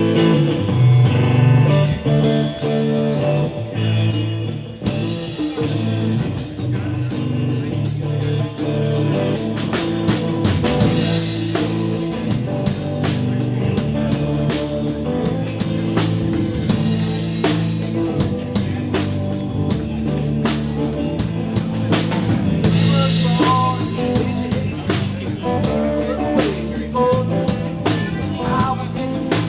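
Live blues band playing: electric guitar over a drum kit keeping a steady beat, with the cymbals coming in busier about ten seconds in.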